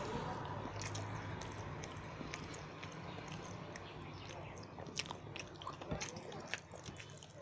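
Close-up chewing and mouth sounds of a person eating, with scattered small wet clicks and smacks that come more often in the second half, over a faint low hum.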